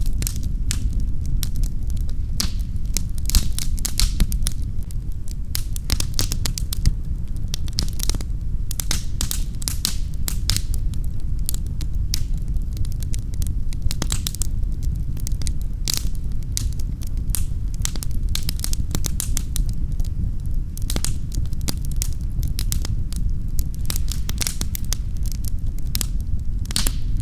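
Wood fire in a fireplace crackling, with frequent sharp, irregular pops and snaps over a steady low rumble of burning.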